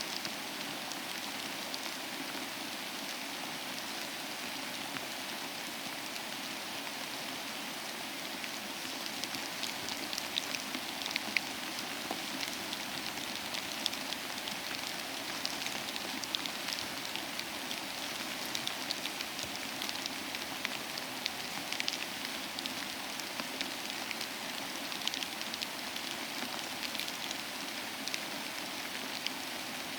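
Steady rain falling, an even hiss with many close individual drops ticking on a surface, the drop ticks growing a little denser from about ten seconds in.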